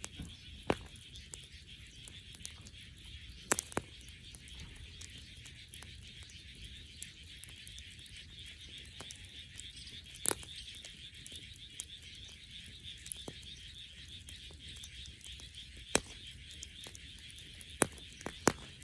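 Bonfire of dead wood burning, with sharp crackling pops every few seconds over a steady high-pitched hiss and low rumble.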